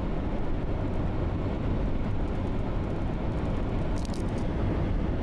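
Steady low rumble of a moving vehicle, with a few faint high ticks about four seconds in.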